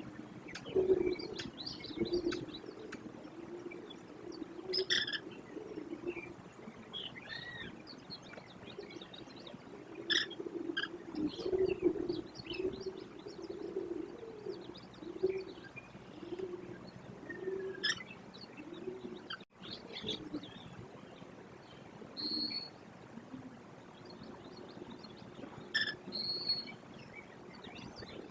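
Wild birds chirping and calling outdoors, with short high chirps and whistles coming every few seconds over a run of low, evenly repeated notes.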